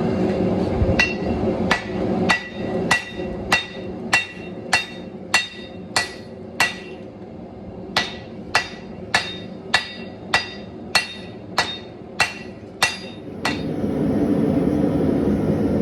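Hand hammer striking a hot steel damascus billet on an anvil, about twenty ringing blows in an even rhythm with one short pause midway, forging the layered billet down by hand. A steady rushing noise runs underneath and carries on alone after the last blow.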